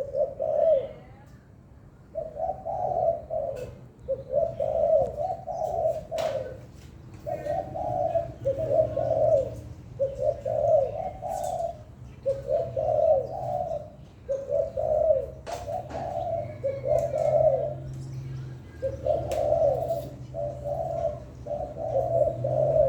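Spotted dove cooing over and over, in phrases about a second long with short pauses between them. A low steady hum and a few sharp clicks lie underneath.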